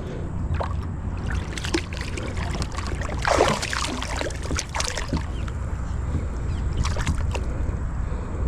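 Water splashing and sloshing beside a kayak as a hooked bass thrashes at the surface while it is reeled in, in irregular splashes, the biggest about three seconds in, over a steady low rumble.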